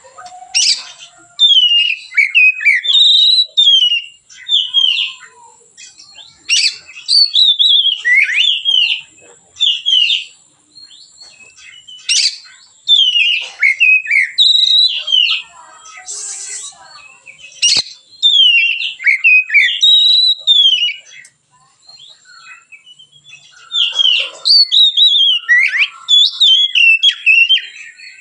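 An Oriental magpie-robin sings loud, varied whistled phrases in bursts, with short pauses between them and a longer pause about three quarters of the way through. A single sharp click comes a little past the middle.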